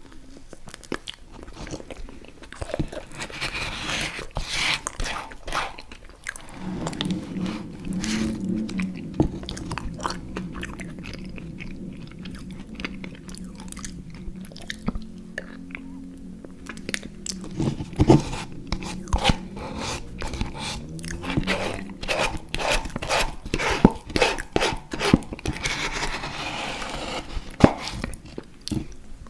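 Close-miked eating: repeated biting, crunching and chewing with many sharp mouth clicks. A low steady drone runs underneath for about ten seconds in the middle.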